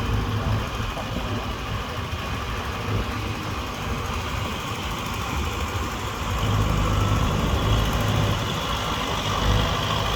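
Tractor engine running steadily, growing louder about six seconds in.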